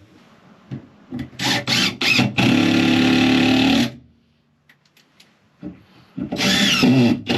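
Electric power tool working wood, run in short trigger bursts and then in a steady run of about a second and a half, stopping, and starting again near the end.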